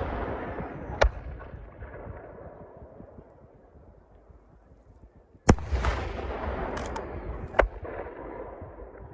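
Aerial firework shells bursting. There is a sharp bang about a second in, then a louder bang about five and a half seconds in, followed by two small cracks and another bang. Each burst trails off in a long rumbling echo.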